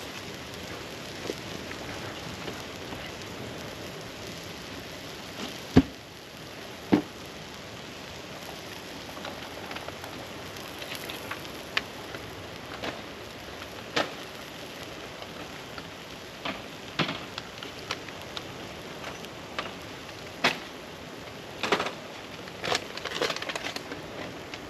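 Campfire crackling: a steady hiss with irregular sharp pops of burning wood, the loudest two about six and seven seconds in.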